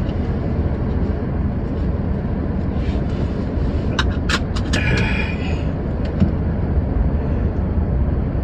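Steady low rumble of the van's engine idling, with a few sharp clicks about four seconds in.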